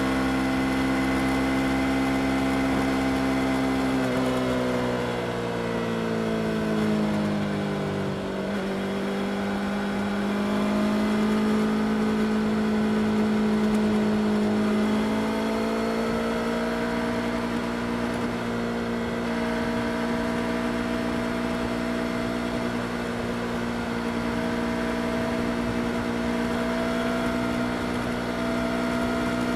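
Yamaha R25's parallel-twin engine running steadily. Its pitch falls as the revs drop from about four to eight seconds in, then rises a little and holds even.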